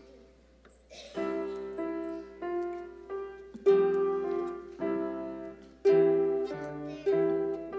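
Piano playing offertory music: slow struck chords that each fade away, beginning about a second in.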